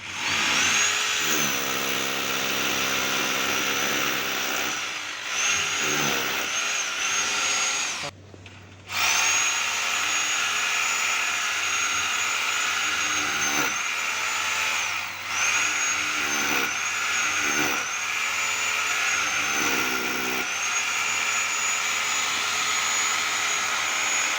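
Handheld electric power tool running loudly with a steady high motor whine. It stops for about a second around eight seconds in and then starts again, and its pitch sags briefly a few times as it comes under load.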